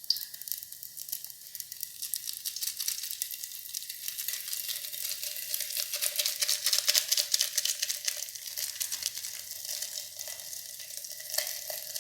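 Hot soybean oil sizzling and crackling in an electric kettle as spices fry in it; the sizzle grows louder around the middle, with a sharp click near the start and another near the end.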